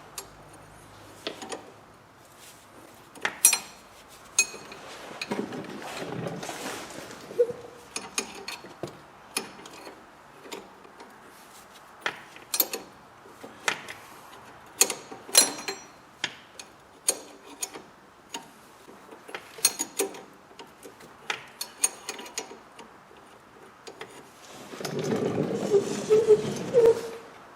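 Scattered sharp metallic clicks and clinks of hand tools and the new front stabilizer link as its stud is worked into the suspension mount, with two longer stretches of rattling scraping, the louder one near the end.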